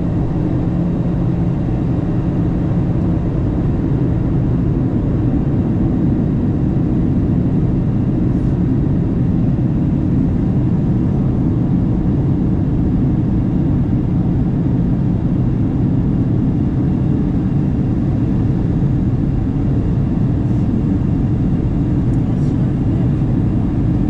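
Steady in-flight cabin noise of a Boeing 737-900 descending on approach: a constant low rumble of CFM56-7B engine hum and airflow past the fuselage, heard from a window seat.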